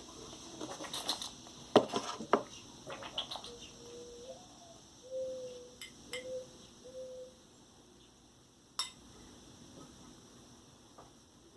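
Chopsticks clicking and clattering against a dish, in quick taps over the first few seconds, then one more sharp click later on. In between come a few short, soft, low-pitched notes, one of them rising.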